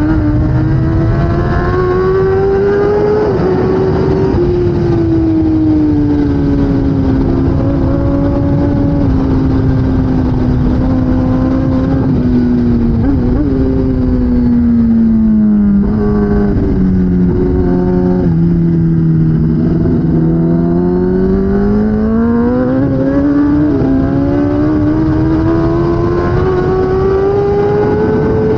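A 2016 Kawasaki ZX10R's inline-four engine at race pace: the revs climb through upshifts at first, fall through a string of downshifts around the middle, and climb again with upshifts near the end. A steady rush of noise runs underneath.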